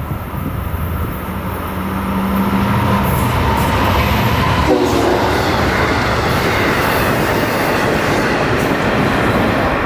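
A train passing, its running noise growing louder about two seconds in and then holding steady.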